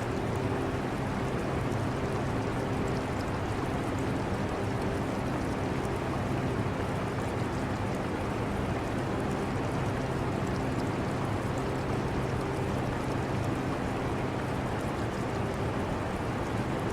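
Steady hum and whoosh of an air conditioner running, mixed with the trickle of aquarium water.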